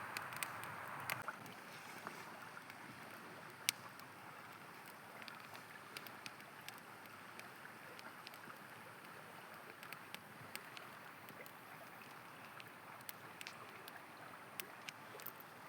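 River water rushing steadily, with a wood campfire crackling over it: scattered sharp pops and snaps, the loudest about four seconds in.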